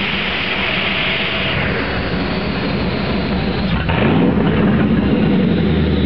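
A 4.2 V8 engine in a VW Golf Mk2 running on a chassis dynamometer. About four seconds in the sound dips briefly, then the engine note climbs in pitch and gets a little louder.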